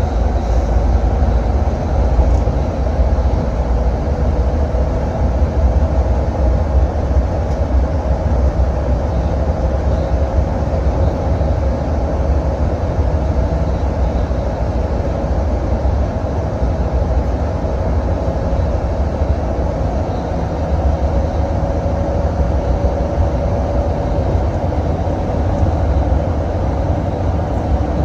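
Intercity bus cruising at highway speed: a steady low engine and road rumble, with a faint whine that drifts slightly in pitch.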